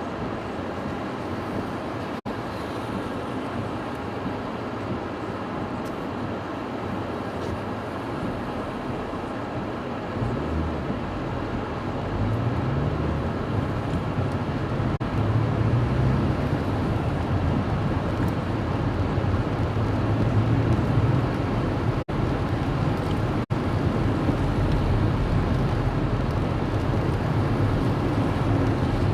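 Car running, heard from inside, with engine and road noise; about a third of the way in the engine note rises as the car pulls away and speeds up, and it stays louder from then on.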